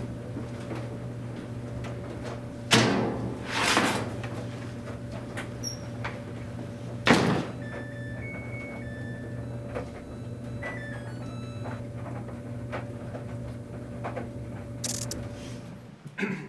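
Washing machine door or lid banged shut several times, then a short run of electronic beeps stepping down in pitch, over a steady low hum.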